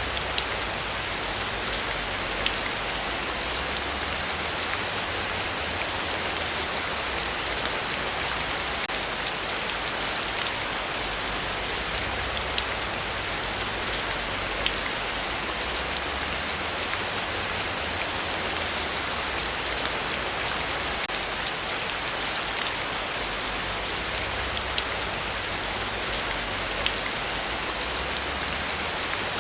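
Heavy rain falling steadily: a dense, even hiss with scattered sharp ticks of single drops.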